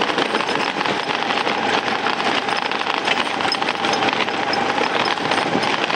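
Motor scooter running along a rough stony track, a loud rushing noise with a faint steady engine tone and many small knocks and rattles.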